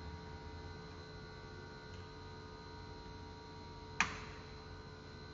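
Steady electrical mains hum, with one sharp click or knock about four seconds in.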